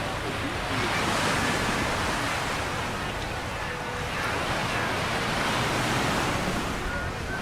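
Ocean surf washing onto a sandy beach, the wash swelling about a second in and again around six seconds, with some wind rumble on the microphone.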